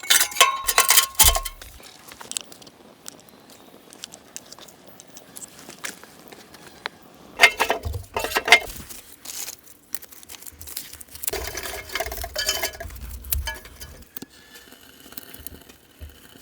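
A flurry of sharp clinks with a brief ringing tone in the first couple of seconds, then scattered knocks and rustles in two bursts later on: dishes or cookware being handled.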